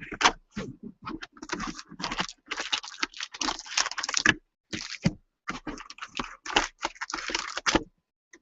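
Trading cards and their packaging being handled at close range: a quick run of clicks, crinkles and scrapes with a couple of short pauses.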